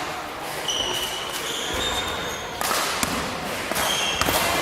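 Basketball game play: a ball bouncing on the court and several short, high sneaker squeaks on the floor.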